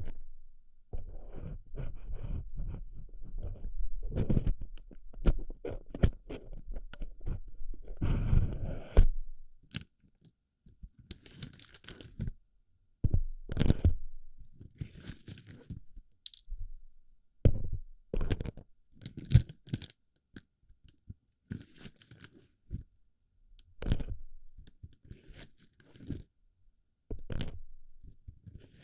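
Plastic BB pellets rubbing, rattling and crunching close against a microphone's ear. A dense run of rustling and crunching for the first nine seconds, then separate crunches and clicks with short gaps.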